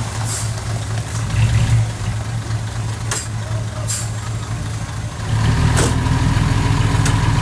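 Heavy diesel engine of earthmoving machinery running with a steady low rumble, getting louder and working harder about five seconds in. Several short, sharp high-pitched clicks sound over it.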